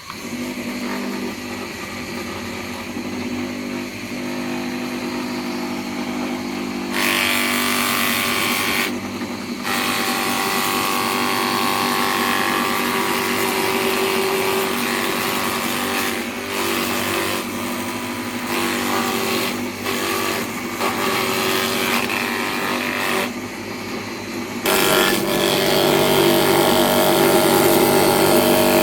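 A power tool's motor running steadily, with a harsher, louder noise at times, several seconds in and near the end.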